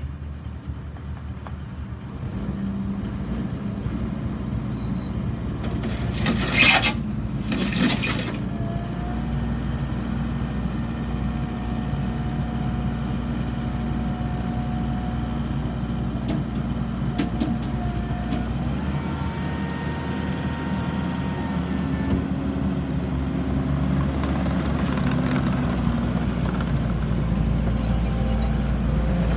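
Kubota SVL90-2 compact track loader's diesel engine running steadily, with a faint whine that comes and goes, growing louder toward the end. Two short loud bursts of noise about a second apart come around seven seconds in.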